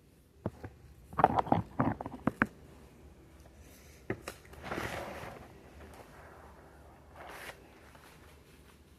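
A quick run of sharp clicks and knocks about a second in, then a single click and a short rustling scrape near the middle, and a briefer rustle near the end.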